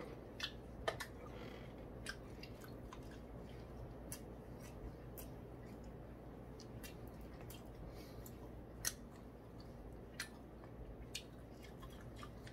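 A person chewing a fried chicken wing close to the microphone: scattered small clicks and smacks of the mouth and teeth, over a faint steady low hum.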